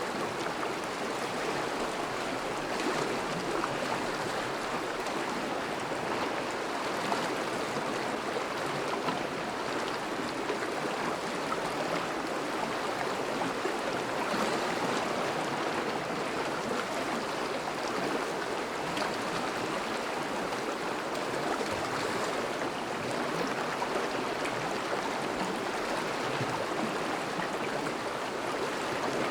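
Water of a river in thaw running steadily over and around ice, a constant rushing babble.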